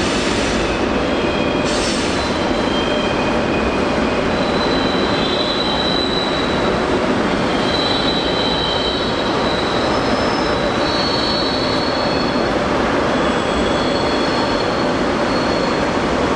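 Double-deck passenger train rolling through the station at low speed over a steady rumble of wheels on rails, with high wheel squeals that come and go, shifting in pitch.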